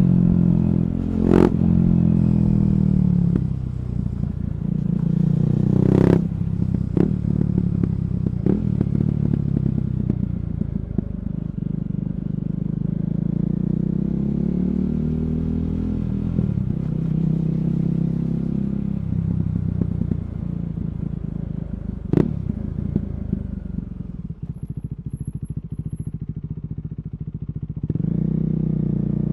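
KTM Duke 390's single-cylinder engine running through an Akrapovic slip-on exhaust with an HP Corse decat pipe, its pitch rising and falling as the rider accelerates and backs off. There are a few sharp pops along the way, and it settles to a steadier note near the end.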